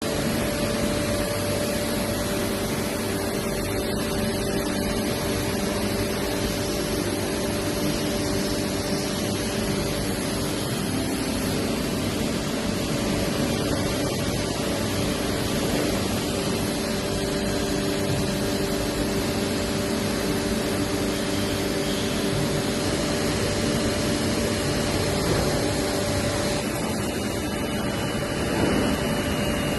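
Okuma MU-400VA universal machining centre running: a steady mechanical hum with several held tones under a hiss, joined near the end by a higher whine.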